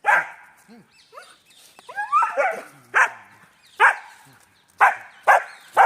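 German Shepherd barking: about six short, sharp single barks, coming closer together near the end.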